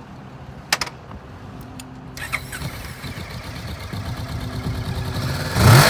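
Kawasaki Vulcan S 650cc parallel-twin engine running, with a sharp click about a second in, then a throttle blip near the end that rises quickly in pitch and loudness.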